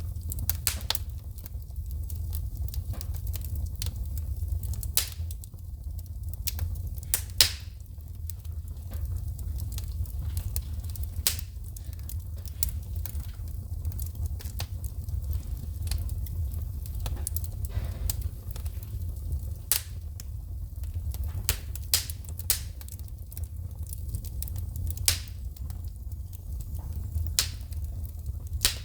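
Wood fire burning in a fireplace with a steady low rumble, crackling and snapping irregularly, with a few sharper pops as sparks shoot from the logs.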